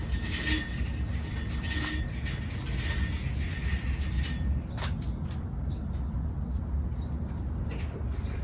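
Steady low rumble of city traffic, with scattered short high clicks and chirps during the first half.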